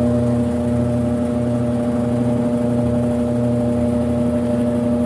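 Brastemp 5 kg top-loading washing machine spinning in its spin cycle, the load now balanced: a steady motor hum over a low rumble that swells and fades.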